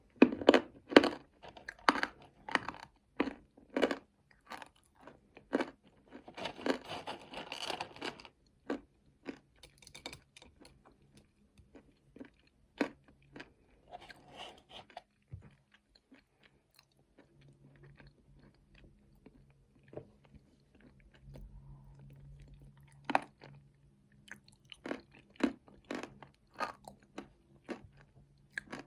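Close-up chewing and crunching of nuts in chocolate paste, with sharp crunches in clusters. A dense run of crackling comes about a quarter of the way in, the middle goes quieter, and the crunching picks up again near the end.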